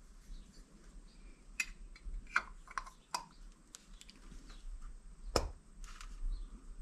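Scattered light clicks and taps of a metal carburetor float bowl being handled and fitted onto the carburetor body, with the sharpest click about five seconds in.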